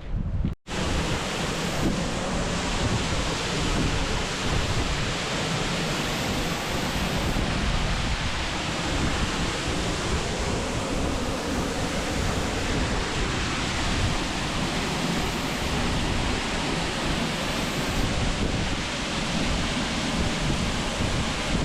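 Steady rushing noise of wind and water, with no clear pitch or rhythm, starting just after a brief cut in the sound under a second in.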